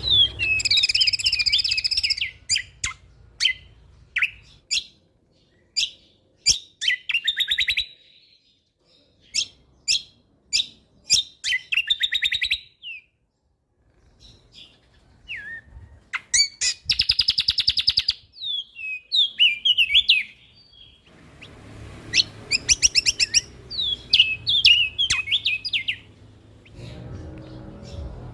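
A songbird singing a varied, loud song: rapid rattling trills, sharp high single notes and quick chattering phrases, broken by short pauses. A faint low hum sits under parts of it.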